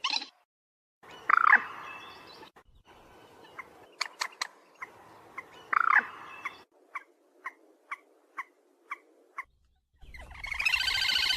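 Calls of the cuốc biển, a rail: a falling squawk twice, a row of short sharp notes about two a second, then a harsh, buzzy call that starts near the end.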